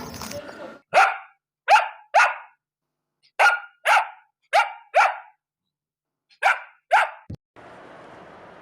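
A dog barking: nine short, sharp barks in three quick runs of three, four and two.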